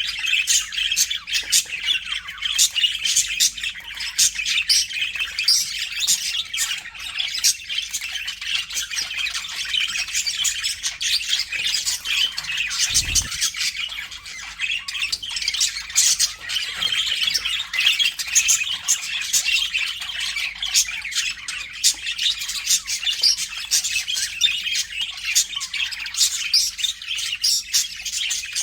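A flock of budgerigars chattering, with many overlapping chirps, warbles and squawks at once. There is a brief low thump about halfway through.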